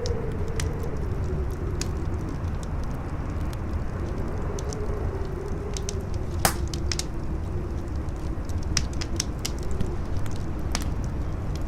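Campfire crackling with scattered sharp pops, the loudest about six and a half seconds in, over steady wind with a low howl that wavers in pitch.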